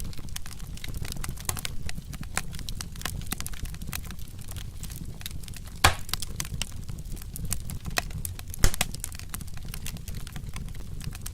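Wood fire crackling: dense, irregular snaps and pops over a low rumble of flames, with two louder pops, about six and about eight and a half seconds in.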